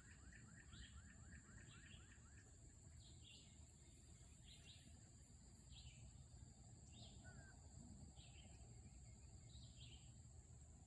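Near silence outdoors, with a bird calling faintly: short falling chirps repeated about once a second, and a rapid trill in the first couple of seconds.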